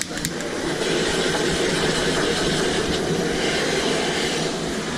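Steady kitchen noise of a burger food truck at work: sizzling at the grill and fryer over a running hum, growing a little louder about a second in. A couple of light clicks just after the start.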